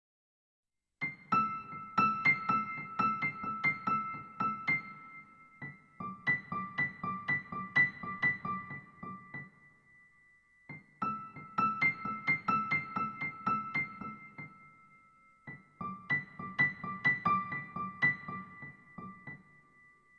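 Sad, slow solo piano: a repeated high-note figure over soft low notes, played in four phrases of about four seconds each with short pauses between them.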